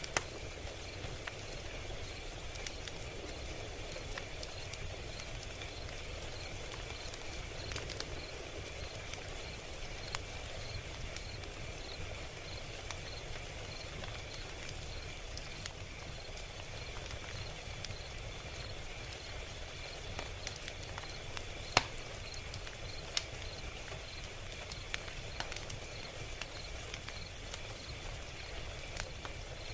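Log fire crackling, with scattered pops over a low rumble and one louder pop about three-quarters of the way through. Crickets chirp steadily behind it.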